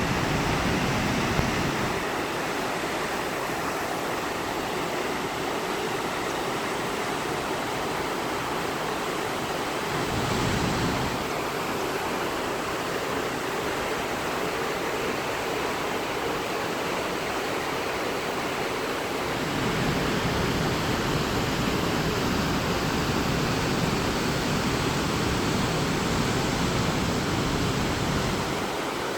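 Sengataki waterfall's water falling and splashing: a steady, dense rushing hiss, with a deeper rumble that swells at times, around ten seconds in and again from about twenty seconds on.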